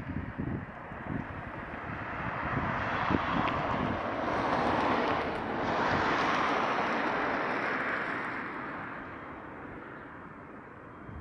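A vehicle passing by, its noise swelling for a few seconds, peaking with a brief dip near the middle, then fading away. Wind buffets the microphone at the start.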